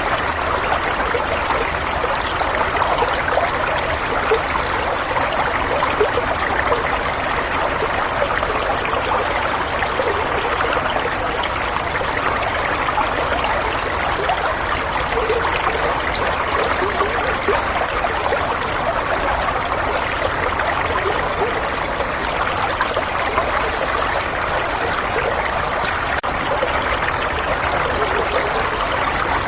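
Flowing water, a steady even rushing and trickling that holds unchanged throughout.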